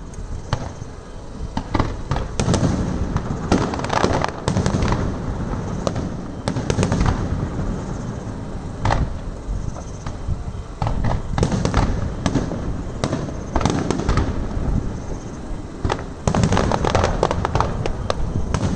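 Aerial fireworks display: shells launching and bursting in a continuous, irregular run of bangs and crackles, with busier clusters a few seconds in and again near the end.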